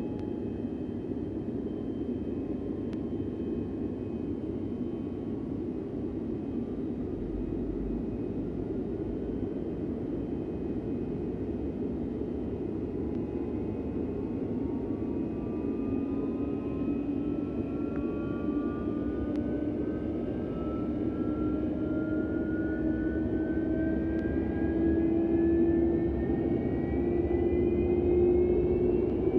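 Turbofan engine of an Antonov An-124 Ruslan spooling up during a cold start: a steady rumble with a whine that rises in pitch from about halfway through, growing slowly louder.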